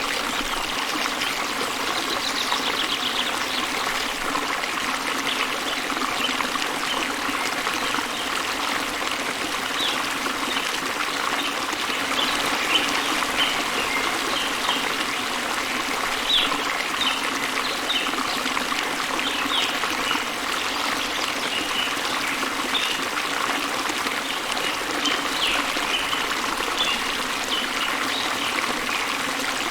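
Small waterfall cascading into a river: a steady rush and trickle of running water. Birds chirp briefly now and then over it, more often from about a third of the way in.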